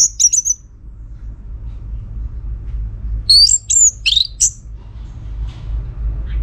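Orange-headed thrush singing: a quick phrase of high whistled, sweeping notes at the start and another about three seconds in, over a steady low rumble.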